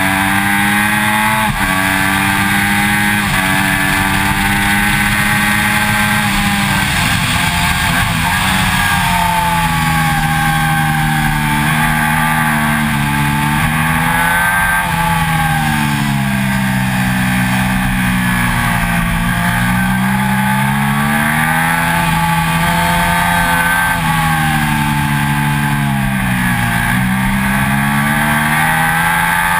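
2006 Triumph Daytona 675's three-cylinder engine running hard on track. Its pitch steps at gear changes and swoops down and back up several times as the bike slows for corners and accelerates out, over a steady rush of wind and road noise.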